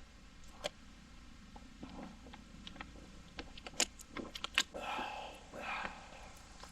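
A drink bottle being handled and drunk from: a few small sharp clicks and clinks, the loudest about four seconds in, then breathy gulping sounds near the end.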